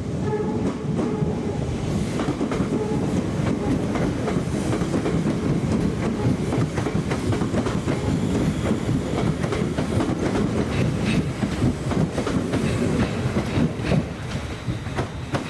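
Caledonian Sleeper train passing close by, its coaches rumbling and wheels clattering rhythmically over rail joints. The last of a horn note fades in the first second.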